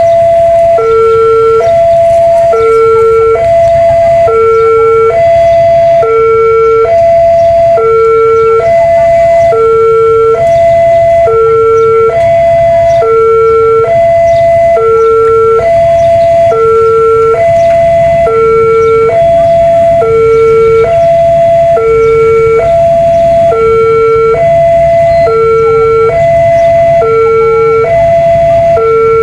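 Railway level-crossing warning alarm sounding continuously: a loud electronic two-tone signal alternating high and low about once a second, the warning that a train is approaching and the barriers are closing or closed.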